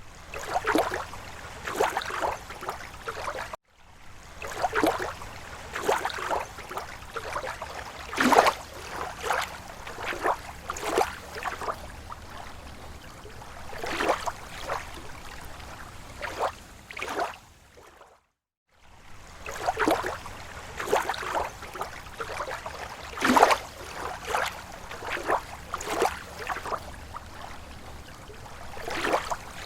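Small waves lapping on a lake shore: irregular short splashes and slaps of water, a second or so apart. The sound cuts out completely twice, briefly.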